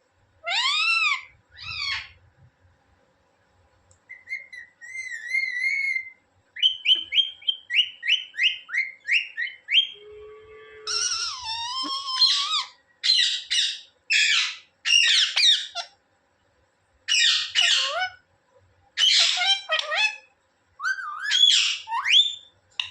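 Indian ringneck parrot calling and whistling: a wavering whistle, then a run of quick, short repeated chirps, then loud calls sweeping up and down in pitch, in groups with short pauses between.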